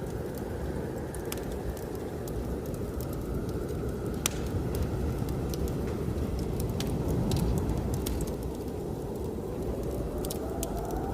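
Wood fire crackling with scattered sharp pops, over a steady low rumble of blizzard wind that swells about seven seconds in. Near the end the wind rises into a faint whistle.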